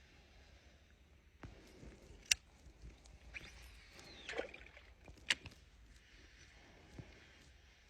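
Faint sounds of a kayak being paddled: a few sharp knocks, the two loudest about two and five seconds in, with a short squeak falling in pitch between them.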